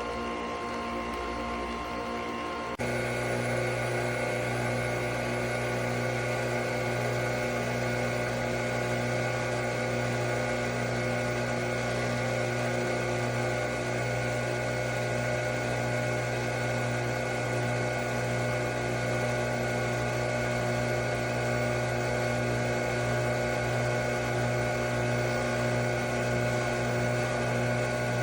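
Nespresso Vertuo Pop+ capsule coffee machine brewing, its pump and capsule-spinning motor running with a steady mechanical hum. The hum gets suddenly louder about three seconds in and then holds steady.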